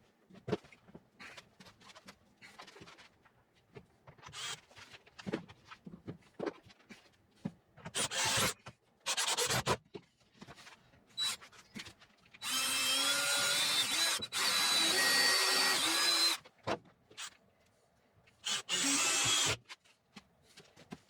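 Power drill run in five short bursts, the longest two lasting about two seconds each near the middle. Small knocks and clicks of handling fall between the bursts.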